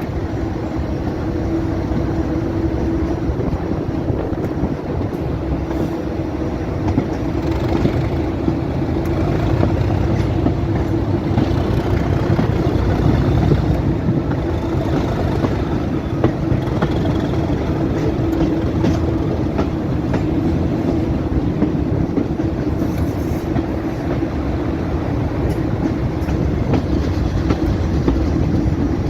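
Heritage diesel train running along the line: a steady engine drone holding one pitch, with a loud rumble and light clatter of the wheels over the rails.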